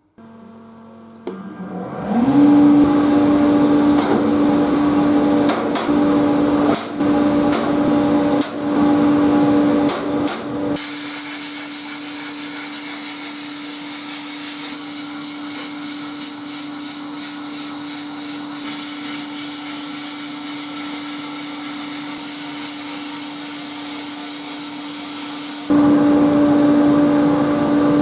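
An electric shop machine motor spins up to speed and runs steadily with a hum and a wide hiss, broken by a few sharp knocks.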